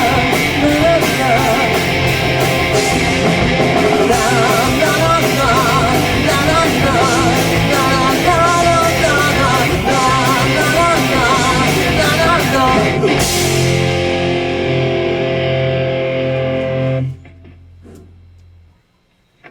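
A live rock band of electric guitars, bass, drums and a lead singer plays the end of a song. About 13 seconds in they hold a final chord, which is cut off sharply about four seconds later, leaving a low bass note that dies away.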